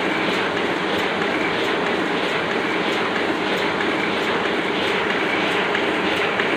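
Oliver offset printing press running at a steady speed, a continuous mechanical clatter with a faint regular ticking through it.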